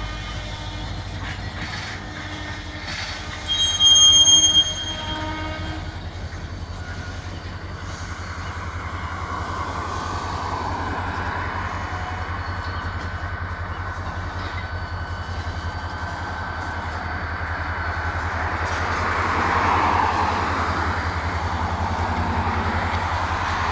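Freight train cars rolling slowly past on the rails, with a short, loud, high-pitched wheel squeal about four seconds in and a fainter steady squeal later on. The rolling noise swells near the end.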